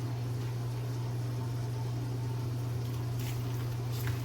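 A steady low hum in a small kitchen, with a few faint clicks near the end.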